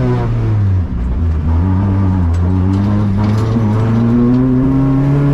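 Citroen C2 rally car's four-cylinder petrol engine under way. Its pitch falls at first, with a brief dip about a second in, then climbs steadily as it pulls under load, with a few faint ticks over the top.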